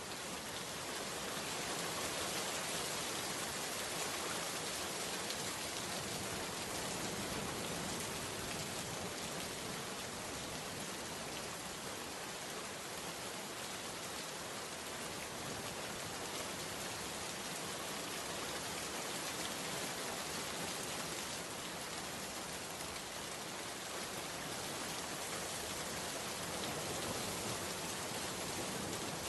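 Steady rain falling, an even hiss with no distinct drops, thunder or other sounds standing out.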